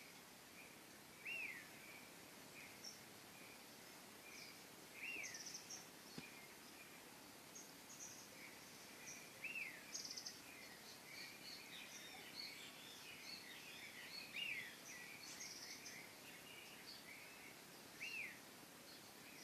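Faint morning birdsong: one bird repeats a short arched call about every four seconds, while other small birds add quick high chirps and twitters over a soft outdoor hiss.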